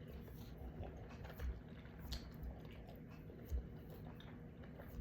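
A person chewing food close to the microphone, with soft scattered clicks and a few low bumps, the strongest about one and a half and three and a half seconds in.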